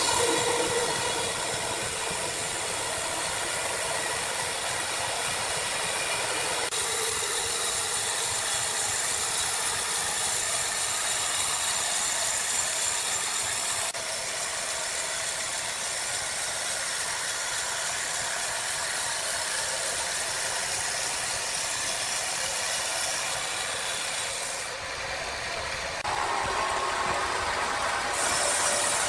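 Sawmill machinery running with a steady hissing noise, changing abruptly in character several times.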